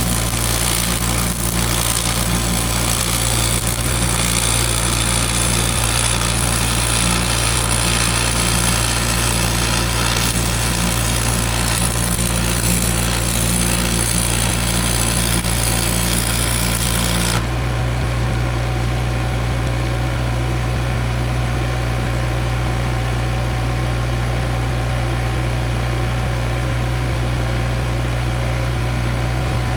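An engine running steadily throughout, with a loud hissing crackle of welding over it that cuts off abruptly a little past halfway.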